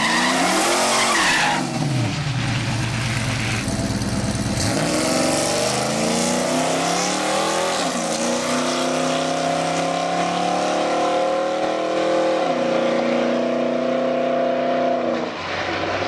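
A vehicle engine at full throttle on the drag strip. Its pitch climbs and then drops back several times, like gear changes, with a stretch of low, rapid pulsing early on.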